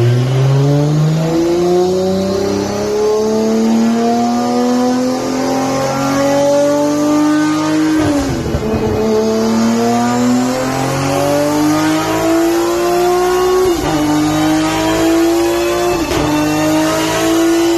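Single-turbo 2JZ-GTE inline-six of a 1994 Toyota Supra with a titanium exhaust, pulling hard under load and climbing steadily in pitch. It is cut briefly three times, about 8, 14 and 16 seconds in, as it shifts up through the sequential gearbox on a flat-shift tune, then keeps pulling.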